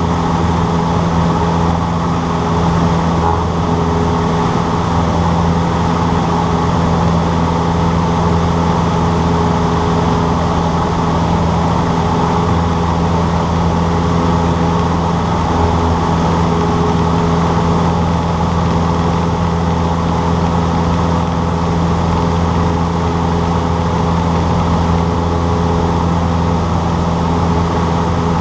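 Cessna 152's four-cylinder Lycoming engine and propeller giving a loud, steady drone, with no change in pitch.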